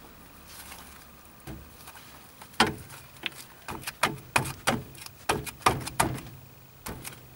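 A dozen or so sharp, irregular clicks and knocks of metal parts being handled as a new wheel bearing is positioned in line with the hub carrier. They start about two and a half seconds in after a quiet stretch and stop near the end.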